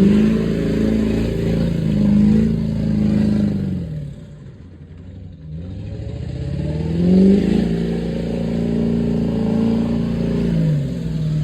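Straight-piped 2001 LB7 Duramax 6.6-litre V8 turbodiesel revving twice, each rev held for about four seconds before the engine note falls back, with a lower, quieter lull in between.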